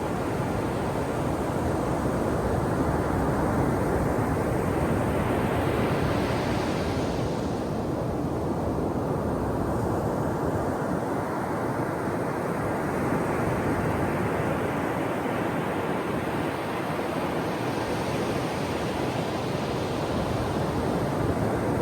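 Ocean surf breaking and washing up on a shore: a steady rush of water, with a hiss that swells about six seconds in and again near the end as waves break.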